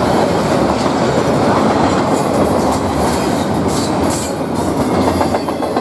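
Train passing, a loud steady rush of steel wheels on rail, with a quick regular clickety-clack of wheels over rail joints near the end.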